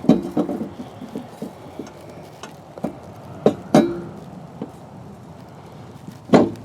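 Metal tools and parts clinking and knocking as they are handled, in a few separate strikes: one just after the start, a cluster a little past three seconds in with a short ring, and a loud one near the end.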